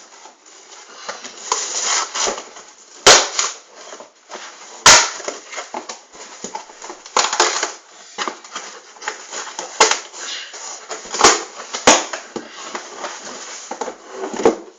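Cardboard shipping carton and packing material being pulled open and handled: irregular rustling and crackling, with four sharp snaps, two of them much louder than the rest.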